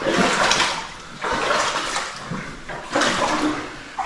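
Deep water sloshing and splashing around a person wading through it, in three surges a little over a second apart.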